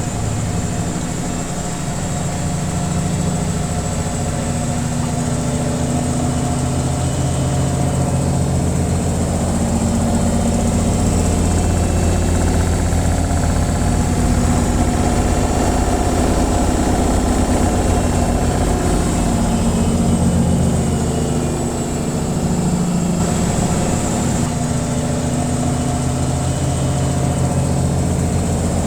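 Washing machine in its spin cycle: a steady low hum and drone made of several tones that waver slightly in pitch, with a faint high hiss above.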